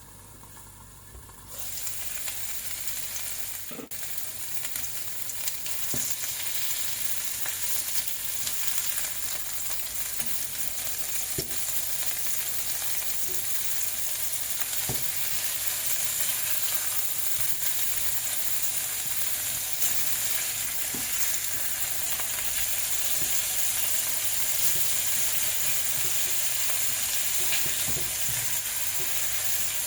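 Hamburger steak patties sizzling in a frying pan, a steady frying hiss that grows louder about a second and a half in, with a few faint clicks.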